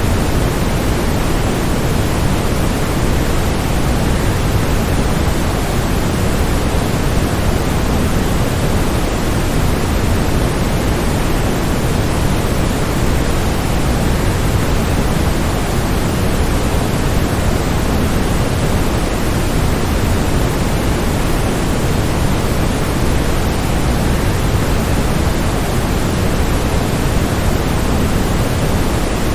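Waterfall's steady, unbroken rush of falling water, heaviest in the low end, with no changes or separate splashes.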